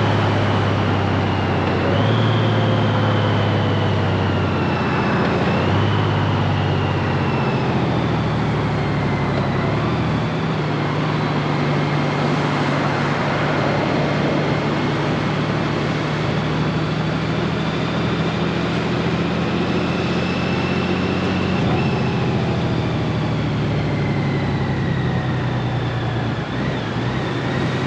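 Honda Gold Wing's flat-six engine running under way, with steady road and wind noise. The engine note shifts up and down in steps several times as the DCT gearbox changes gear.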